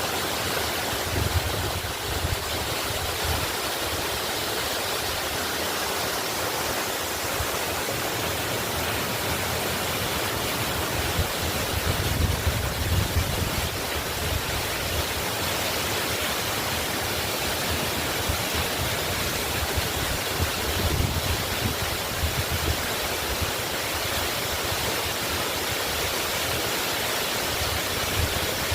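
Waterfall rushing steadily, with a deeper low rumble that swells now and then.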